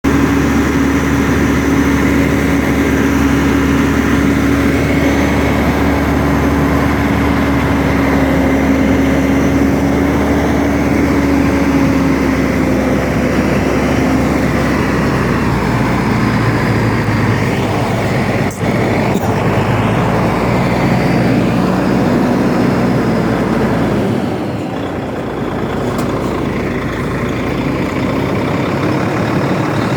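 DAF heavy truck running, a steady engine drone with dense road-and-mechanical noise. There is a brief break about two-thirds of the way through, and the sound eases slightly near the end.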